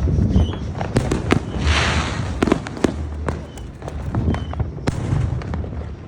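Fireworks going off all around: many sharp bangs and pops at irregular moments, with a hissing crackle about two seconds in.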